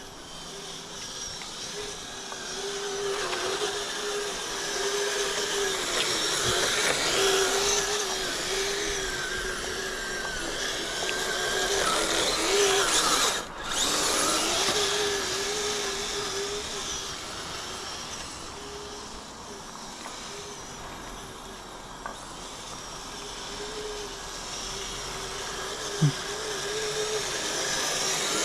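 Kyosho Blizzard RC snowcat driving on metal tracks: its twin Traxxas 380 electric motors whine and the metal tracks clatter, swelling and easing with the throttle. The sound cuts out briefly about halfway, and there is a short click near the end.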